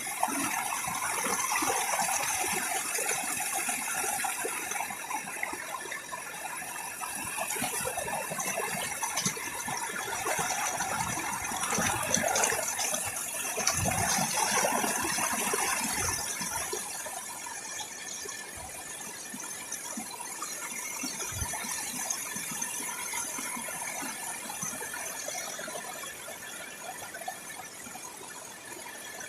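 Rainforest insects trilling and buzzing steadily in several high pitches, with a few low bumps about halfway through.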